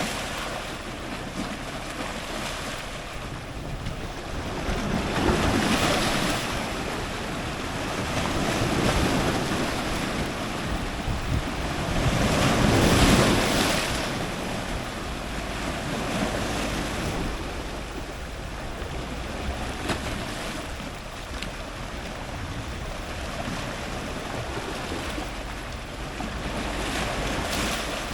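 Ocean surf breaking on rocks close to the waterline: a steady rush of water that swells several times as waves come in and break, the loudest break about halfway through.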